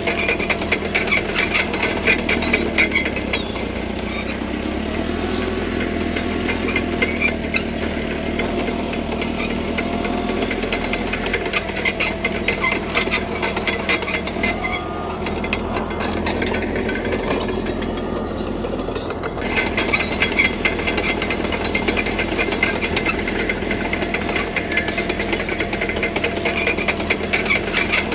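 CAT D3K crawler bulldozer working: its diesel engine runs steadily under load while the steel tracks clatter and squeal. The track clatter thins out for a few seconds around the middle, then picks up again.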